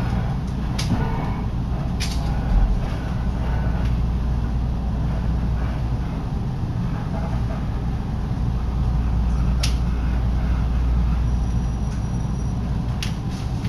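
Electric train running on the Minobu Line, heard from inside the carriage: a steady low rumble with wind from the open window and a few sharp clicks from the wheels and rails.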